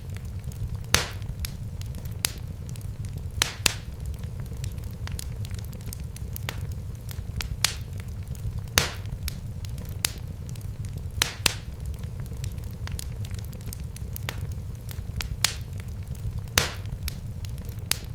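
Wood fire burning in a fireplace: a steady low rumble of the flames with irregular sharp crackles and pops, a few louder snaps among many small ones.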